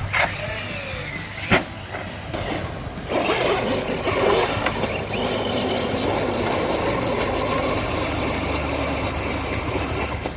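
Radio-controlled truck running: a high electric-motor whine over steady rough tyre noise. There is a sharp knock about a second and a half in, and the running gets louder about three seconds in.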